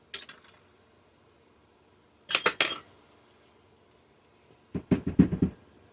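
Small plastic gears from a microwave turntable motor clattering as they are tipped out of the opened gearbox, in three short bursts of clicks and rattles, the last one lower and rattling.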